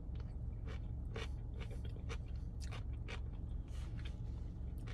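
Close-miked chewing of food, with irregular wet, crisp mouth clicks a few times a second over a steady low hum.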